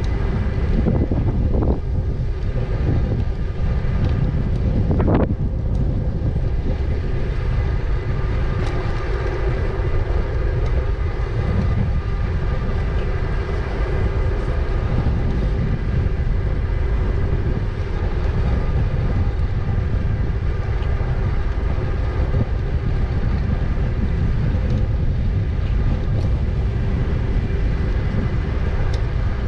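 Wind rumbling on the microphone of a moving e-bike, with the motor's steady whine running over it.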